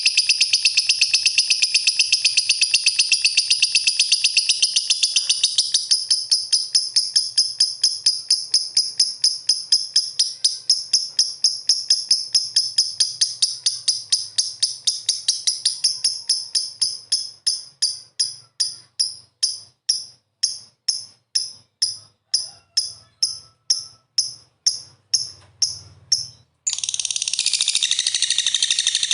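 Lovebird chirping: a long, rapid run of high-pitched chirps that gradually slows into separate chirps about two or three a second, breaks off briefly near the end, then resumes as dense chirping.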